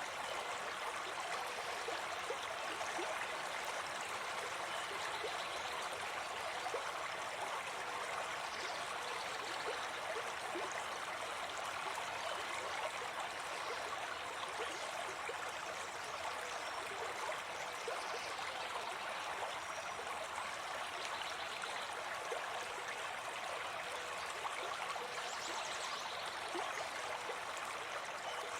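Forest stream running over rocks: a steady, even rush of flowing water, with a few faint high bird calls over it.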